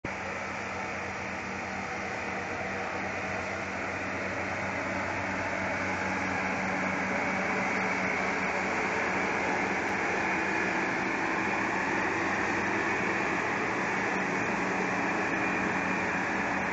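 Rail grinding train at work: a steady, harsh grinding hiss of its stones on the rails over a low engine hum, growing gradually louder.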